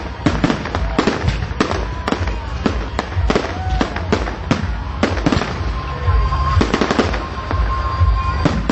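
Fireworks going off in quick succession: many sharp bangs and crackles several times a second, with short arching whistles throughout and one held whistle in the second half.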